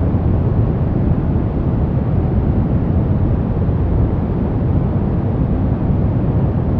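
Steady brown noise: a deep, even rumble-like hiss with most of its weight in the low end, unchanging in level.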